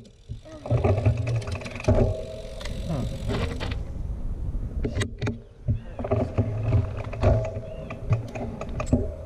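Mountain bike moving along a dirt trail: uneven tyre rumble with many small clicks and rattles, dipping briefly about five seconds in.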